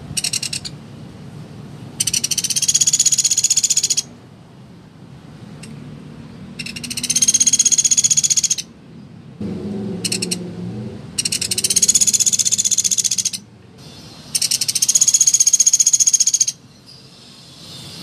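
Pelatuk beras woodpecker calling: four long, fast rattling calls of about two seconds each, high-pitched, with two short rattles between them.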